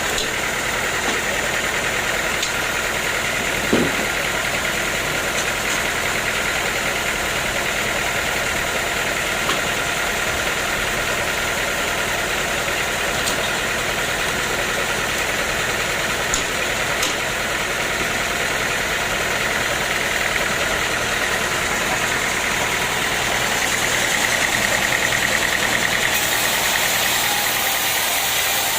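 Sawmill machinery running steadily, with a few faint clicks; it gets slightly louder about three quarters of the way through.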